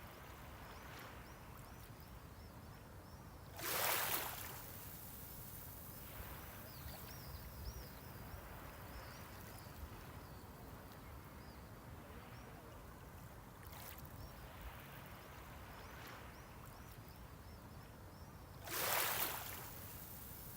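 Small sea waves breaking on the shoreline, two louder surges about fifteen seconds apart, over a steady low wash of the sea.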